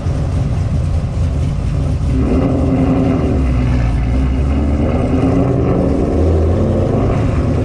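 Car engine running, its pitch rising about two seconds in and then holding.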